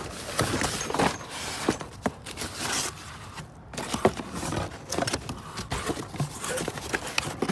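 Metal door locks and hardware clattering and clinking as they are rummaged through and tossed into a box, with many sharp knocks in quick, irregular succession.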